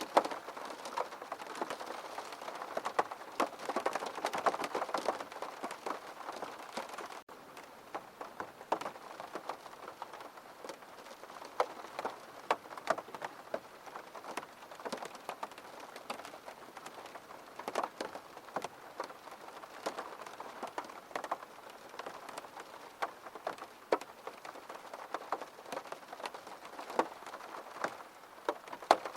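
Steady rain falling on a surface, with a constant hiss and many individual drops tapping sharply. It eases slightly about seven seconds in.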